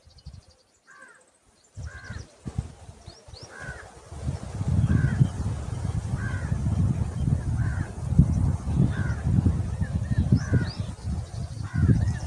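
A bird calls over and over, about once a second, in short arched notes. From about four seconds in, a low rumble rises under the calls and grows louder toward the end.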